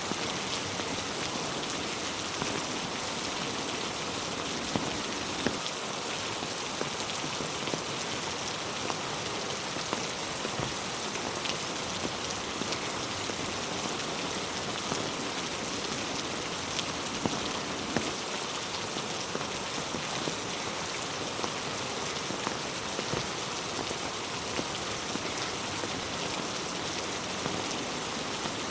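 Steady rain falling on a road and trees, with scattered individual drops striking close by as sharp ticks.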